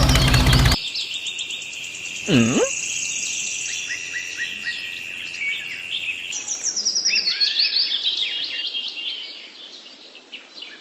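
Songbirds chirping and twittering in many short calls. A small engine is running at the start and cuts off abruptly under a second in, and a brief low swoop that dips and rises again comes about two seconds later.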